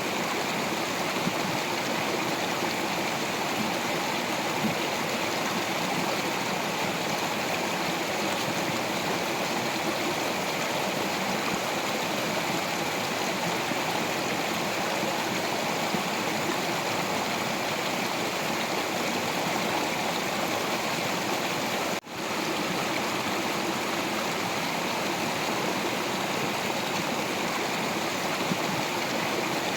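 Stream of water flowing over rocks, a steady rushing and babbling. The sound cuts out for a split second about two-thirds of the way through, then resumes.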